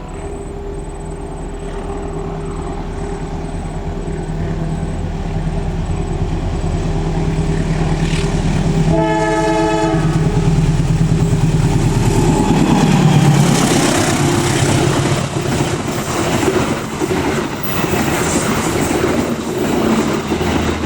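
Diesel-hauled passenger train approaching, its engine rumble growing louder. It sounds one horn blast of about a second, some nine seconds in, then the locomotive passes and the coaches follow with steady wheel-on-rail clatter.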